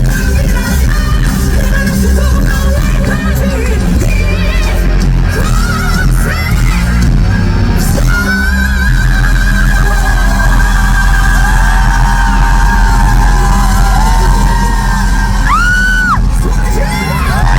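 Live rock band playing at full volume, with long held high notes that bend in pitch over the dense band sound, and the crowd yelling.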